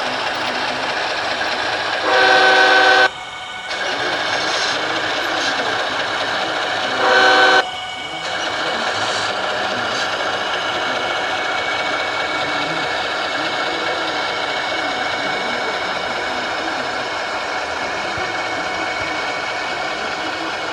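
HO scale model locomotive's sound-decoder horn blowing twice, a longer blast about two seconds in and a short one about seven seconds in, over the locomotive's steady running sound from its speaker.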